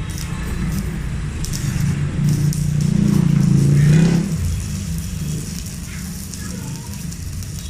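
Stick-welding arc from a Megatec 120EF mini inverter welder burning a 3.2 mm electrode in a continuous run: a steady sizzling crackle. It grows louder toward about four seconds in, then eases off.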